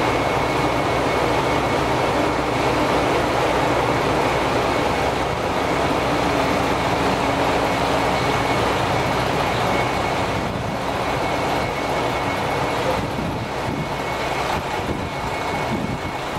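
Kyoto Tango Railway 'Tango Yume Ressha II' railcar running, a steady rumble with a faint steady whine above it, easing slightly about ten seconds in.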